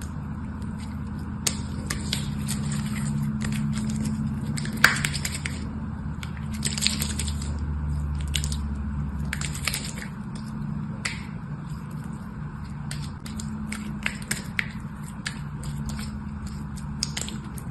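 Close-up hand-handling noises: short wet squishes and crackles with sharp clicks scattered throughout, over a steady low hum.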